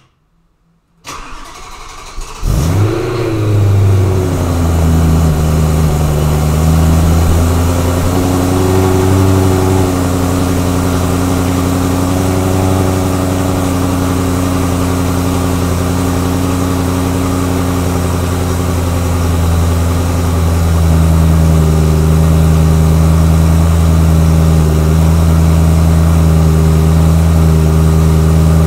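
BMW E92 M3's 4.0-litre V8 cold starting through its stock exhaust: a second or so of starter cranking, then the engine catches with a brief flare of revs and settles into a steady fast cold idle, a little louder about twenty seconds in.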